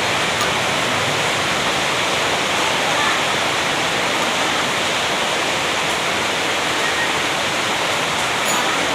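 A loud, steady rushing noise, even from low to high with no pitch, breaks or rhythm.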